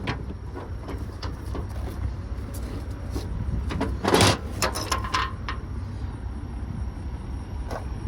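Steady low vehicle rumble with scattered knocks, and a loud cluster of clanks and rattles about four seconds in.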